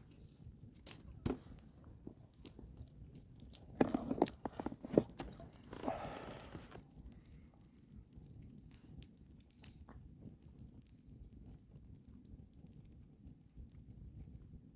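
Hot bison steak being handled and bitten into: a couple of sharp clicks, a cluster of knocks and rustles about four seconds in, then a breathy rush lasting about a second, over a faint quiet background.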